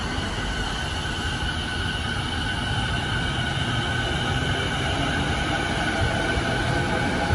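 Blue-and-cream-striped electric commuter train of the Yokosuka Line running along the platform: a steady rumble of wheels on the rails with a steady electric whine from its traction motors.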